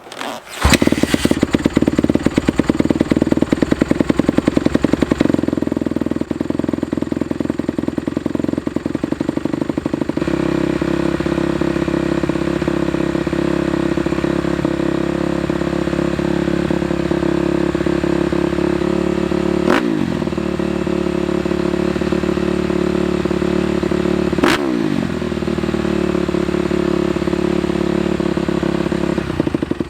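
Honda CRF250R single-cylinder four-stroke dirt-bike engine through a full titanium Yoshimura exhaust, starting up about half a second in and running fast and choppy for the first few seconds before settling to a steady idle. Two short throttle blips rise and fall in pitch in the second half.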